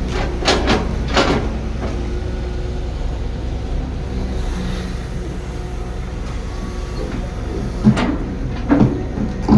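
Heavy construction machine's diesel engine running steadily, with a few clanks about half a second to a second in and twice more near the end.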